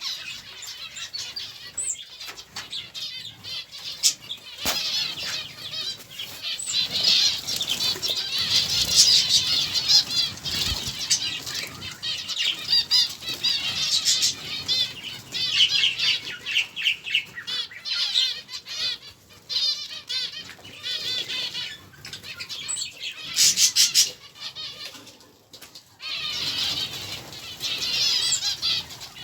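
Many small caged birds chirping and chattering over one another in a dense, continuous chorus of quick, high twitters, with wings fluttering.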